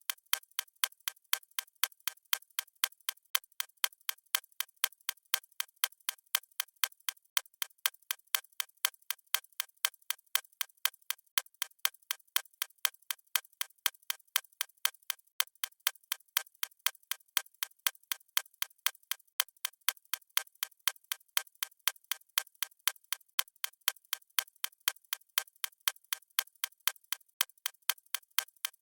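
Clock-ticking sound effect: thin, bright ticks in a steady, even rhythm that never changes.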